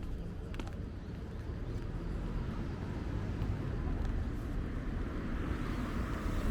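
Street traffic: the steady rumble of cars, with one swelling louder as it passes near the end.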